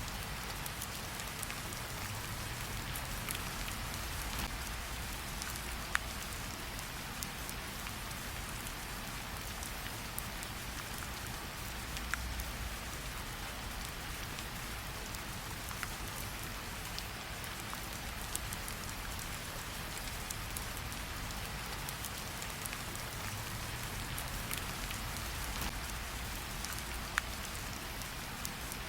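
Steady rain falling, with a campfire crackling underneath and giving a few sharp pops: about 6 seconds in, around 12 seconds, and near the end.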